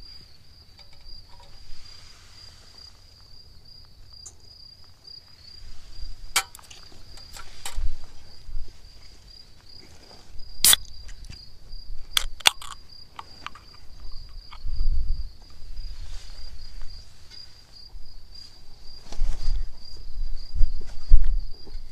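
An insect trills steadily in one high, finely pulsing note. A few sharp clicks and taps cut across it, the loudest about halfway through, and wind on the microphone rumbles in low gusts.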